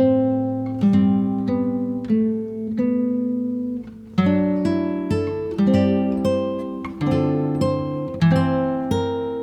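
Acoustic guitar music: plucked and strummed chords that ring and fade, with a short pause about four seconds in before the strumming picks up again.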